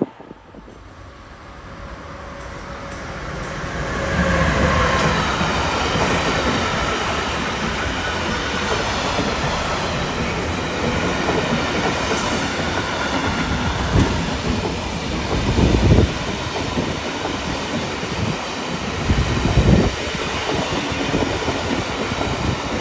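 Freight train passing: the noise builds over the first four seconds, then the wagons roll by in a steady loud rumble and clatter of wheels on rails. A few louder knocks come in the second half.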